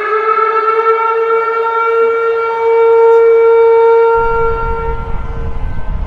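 Civil defense siren finishing its wind-up to pitch and holding one steady tone, then fading out about five seconds in. A deep rumble comes in about four seconds in.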